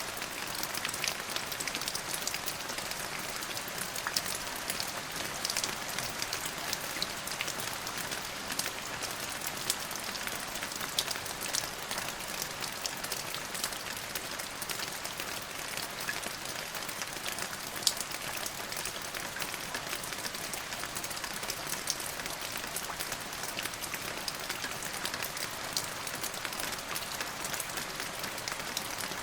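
Steady rain falling, a continuous hiss with many sharp individual drop hits close by.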